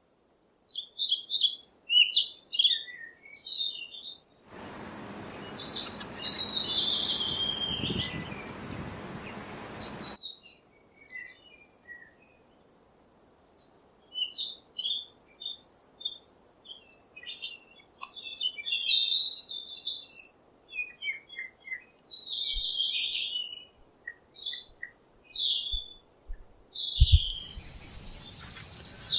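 Birds chirping and singing in quick runs of short, high notes and trills. A steady hiss lies under the calls from about four to ten seconds in, and there is a brief silent pause around twelve seconds.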